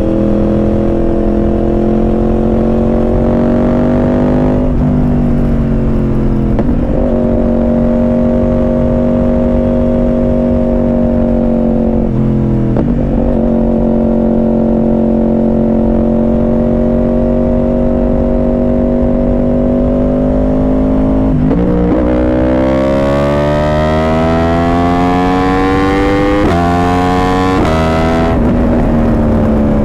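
Yamaha R1 inline-four engine through a Yoshimura exhaust, riding: it pulls up through the gears with two upshifts early on, holds a steady cruise with a brief dip around twelve seconds in, then accelerates hard from about twenty-two seconds with two quick upshifts, and eases off near the end.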